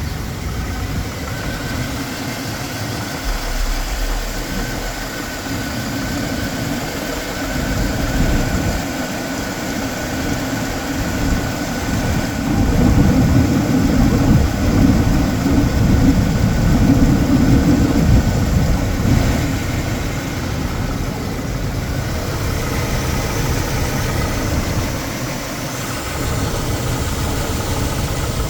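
1998 Chevrolet C1500's 5.0-litre V8 idling steadily with a slight engine knock, louder for a stretch midway.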